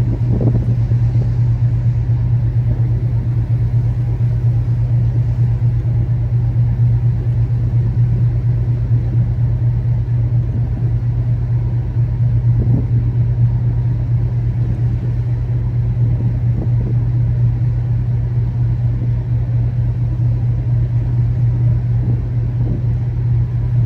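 Steady low drone of a car ferry's engines while the ship is under way, unchanging throughout.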